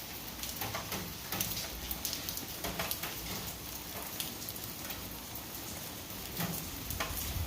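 Light rain falling steadily, with many individual drops striking nearby surfaces as short sharp ticks.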